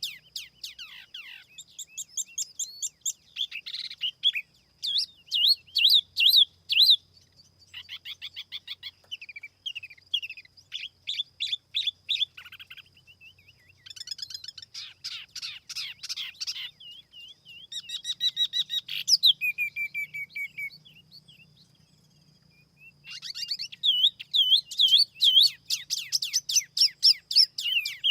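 Tiểu mi songbird singing a lure song: phrases of rapid trills and sweeping whistled notes, with a couple of short breaks between phrases.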